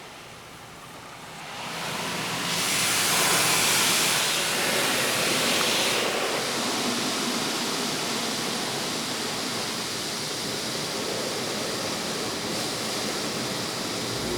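Vector automatic car wash rushing steadily, heard from inside the car. The rushing swells about two seconds in, is loudest and hissiest for a few seconds, then settles to a steady level.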